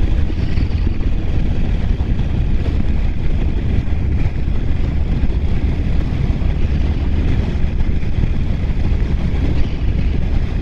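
Steady wind rush and low rumble from a BMW R1200R boxer-twin motorcycle riding at a constant speed, heard from the rider's microphone.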